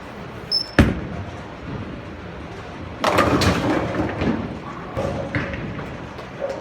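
A Lord Field Black Blizzard bowling ball lands on the lane with a sharp thud. About two seconds later it hits the pins with a loud clatter lasting over a second, followed by a few smaller knocks.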